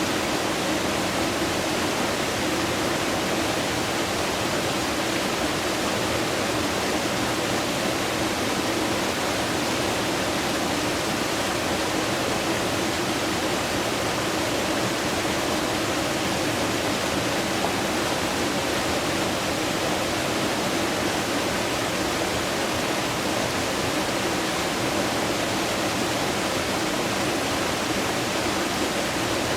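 Rushing water running steadily and evenly, with no breaks or changes.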